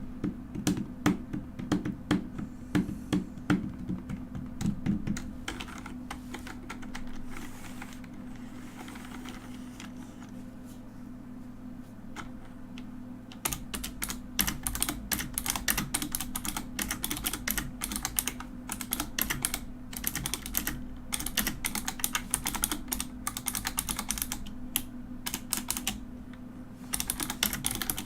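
Mechanical keyboard being typed on, keys clicking and clacking. Softer and sparser for a stretch in the middle, then fast, dense typing from about halfway on.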